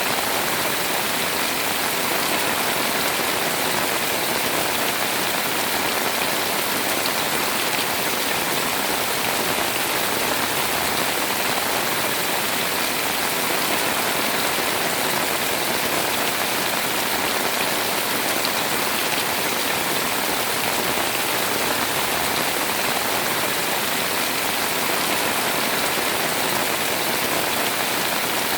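Heavy rain pouring steadily, a dense even hiss of drops with no breaks or changes.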